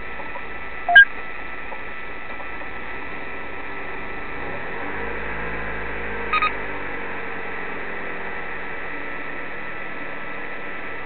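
Steady hum, with a short loud electronic beep about a second in and a quick double beep about six seconds in.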